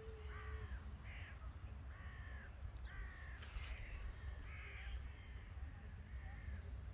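A bird giving a series of short calls, about one a second, growing fainter near the end, over a steady low rumble.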